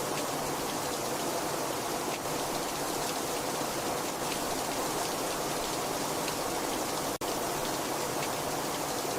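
Heavy rain falling steadily: a dense, even hiss with scattered individual drop ticks. The sound cuts out for a split second about seven seconds in.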